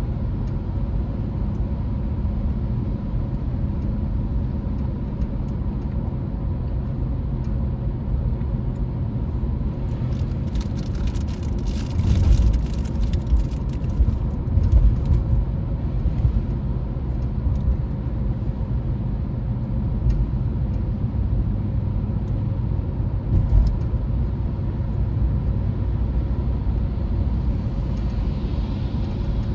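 Steady low rumble of a car driving, with a stretch of crackling and louder bumps about a third of the way in.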